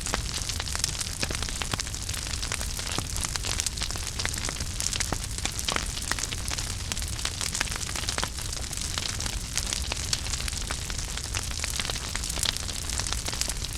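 Wood fire burning in a fireplace: a steady hiss and low rumble with many sharp crackles and pops scattered throughout.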